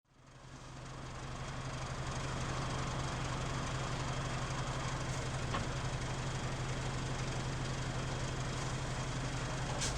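Mitsubishi Fuso KL-MP37JK city bus's diesel engine idling, heard from inside the cabin as a steady low hum with heavy vibration noise.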